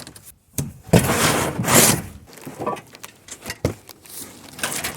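Packaging and boxes being handled: a loud stretch of scraping and rustling in the first two seconds, followed by a few lighter knocks and scrapes.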